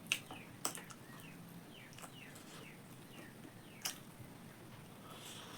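Three sharp wet mouth clicks from someone eating, over faint, repeated short falling bird chirps in the background.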